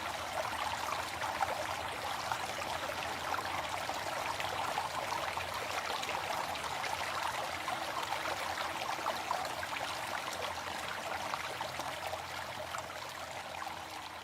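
Waterfall: a steady rush of falling water, starting to fade out near the end.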